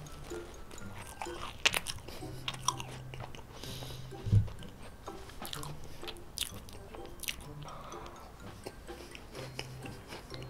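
Close-miked biting and chewing of a strawberry macaron: the crisp shell crackles in many short clicks among soft mouth sounds. A single low thump about four seconds in is the loudest moment.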